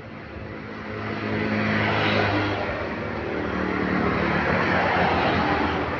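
A heavy road vehicle passing close by: a low engine drone and tyre rush swell up about a second in and stay loud, the engine's pitch dropping a little partway through.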